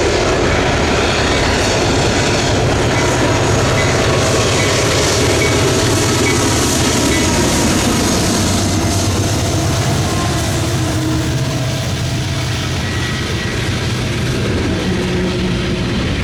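Norfolk Southern freight train passing close under power: the diesel locomotives' engines are working hard over the steady rumble and clack of steel wheels on the rails. The sound is loud and continuous, easing slightly in the second half.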